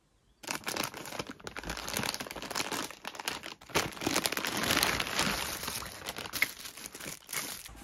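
Plastic vacuum storage bags and their packaging crinkling and rustling as they are handled and unpacked, a dense run of small crackles that starts about half a second in.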